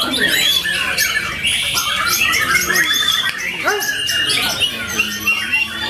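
Caged songbirds singing at once in dense, overlapping chatter, whistles and harsh notes, a white-rumped shama (murai batu) among them.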